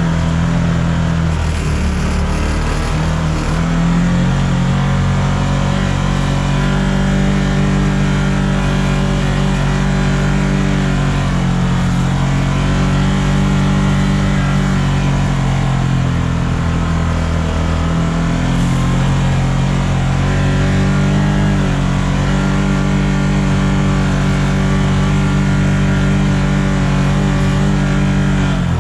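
Vehicle engine running continuously while under way, its pitch dropping and climbing again several times as it eases off and speeds up.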